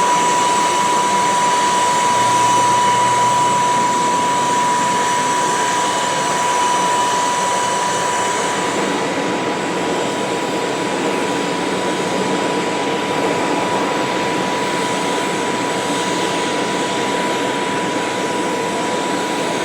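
Private jet's engines running on the ground: a steady rushing noise with a constant high whine.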